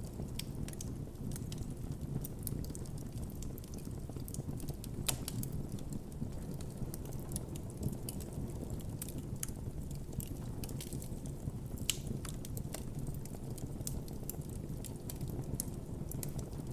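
Campfire burning, with a steady low rumble of flames and frequent irregular crackles and pops. The sharpest pops come about five seconds in and about twelve seconds in.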